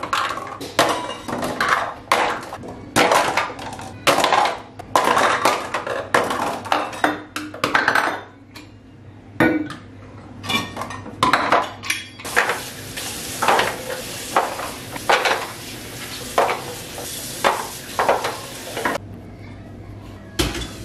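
Dishes, pots and cutlery clattering and clinking as they are handled, in a string of irregular knocks. About twelve seconds in, a steady hiss starts under the clinks and stops about seven seconds later.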